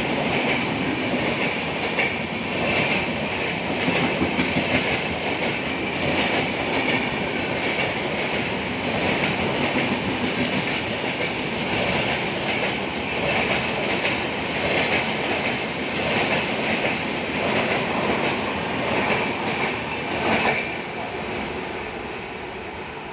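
Tamil Nadu Superfast Express coaches running through a station at speed, the wheels clattering rhythmically on the rails over a steady loud rumble. The noise drops sharply about twenty seconds in and then fades.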